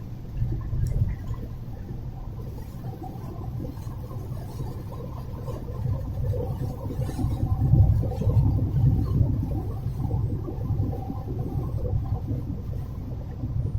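A low, uneven rumbling noise that rises and falls, loudest about eight seconds in.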